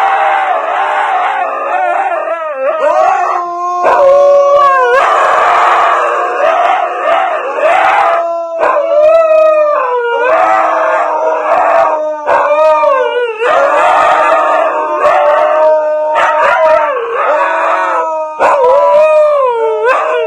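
A dog howling in long, wavering notes, one howl after another with short breaks between them.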